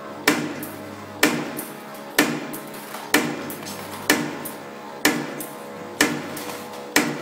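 CNC spring coiling machine making compression springs: a sharp metallic clack with a short ring about once a second, as the cutter cuts off each finished spring, over a steady machine hum.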